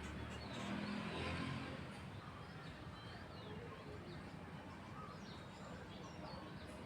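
Faint outdoor background with a low rumble near the start, then scattered short, high chirps of small birds.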